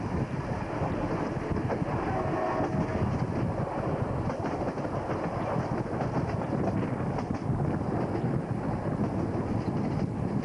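Diesel-hauled passenger train running at speed, heard from the locomotive cab's side window: a steady rumble of engine and wheels with an irregular clatter of the wheels over rail joints and points.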